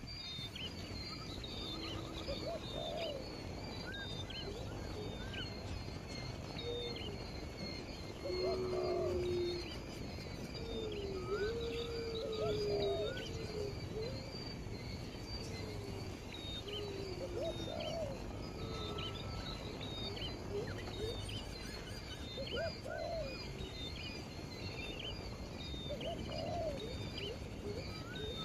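Wild birds calling: low, hoot-like calls that repeat every two to three seconds, over a steady scatter of short high chirps.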